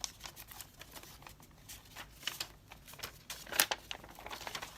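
Paper being handled: a string of short, crisp rustles and crackles, the sharpest about three and a half seconds in.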